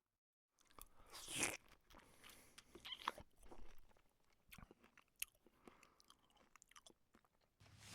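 Cats chewing food, a run of irregular small crunches and clicks, with one louder burst about a second and a half in.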